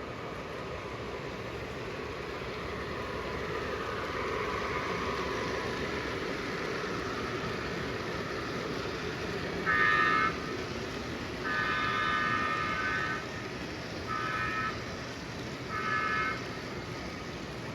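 O gauge model locomotive's electronic sound system sounding its horn in the grade-crossing pattern: long, long, short, long. The steady rumble of the train running on the layout track lies underneath.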